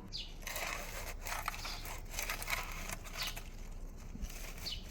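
Soil being loosened by hand in a small plastic nursery pot: irregular scraping, crumbling and crinkling with small clicks.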